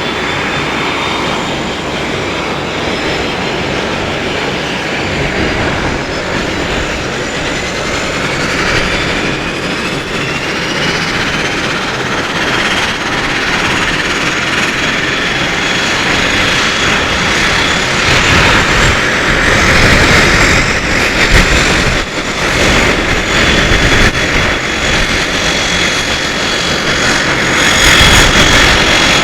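Embraer EMB 120 Brasilia's twin Pratt & Whitney Canada PW118 turboprop engines running on the ground after startup, their turbine whine slowly rising in pitch as they spool up. Low rumbling gusts come and go through the second half.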